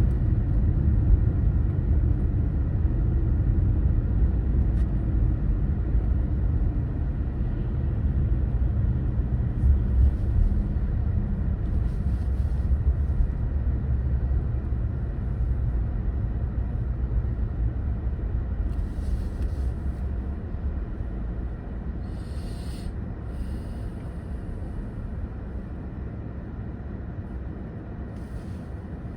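Low, steady rumble of a car driving: road and engine noise that slowly grows quieter toward the end, with a few brief hisses along the way.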